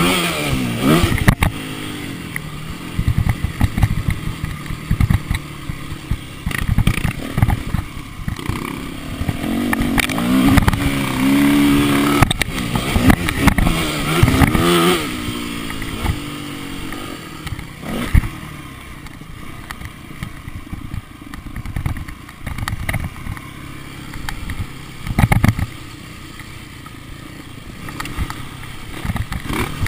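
Motocross bike engine running and revving, its pitch rising and falling and loudest about ten to fifteen seconds in, with frequent knocks and clatter throughout.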